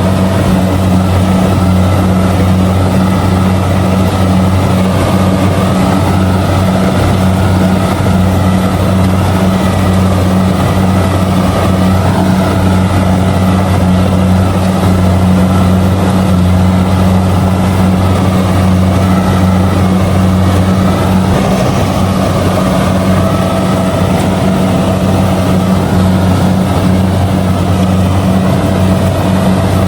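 Kubota DC70G combine harvester running steadily while harvesting rice, a constant low engine drone with no change in pitch.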